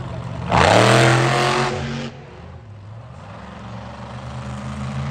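Monster truck engine revving hard with a rising pitch about half a second in, then backing off about two seconds in to a lower running note that builds again near the end.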